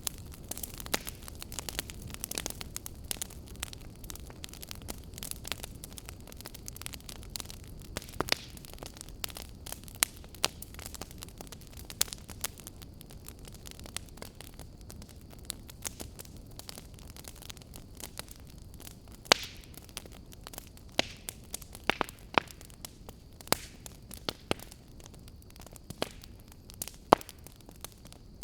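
A fire crackling: irregular sharp pops and snaps, several a second and a few noticeably louder, over a low steady rumble of the flames.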